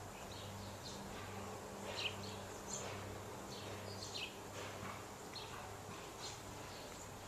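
Faint back-yard ambience: scattered short, high, falling bird chirps over a low steady hum that comes and goes.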